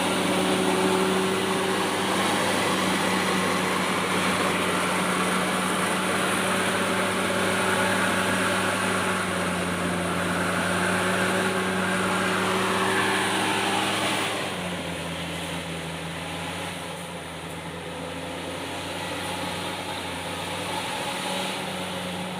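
Komatsu D68ESS crawler bulldozer's diesel engine running steadily at working speed, then easing down to a lower, quieter speed about two-thirds of the way through.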